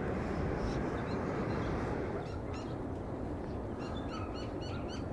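Two runs of quick, short, high bird chirps in the second half, over a steady low rushing noise.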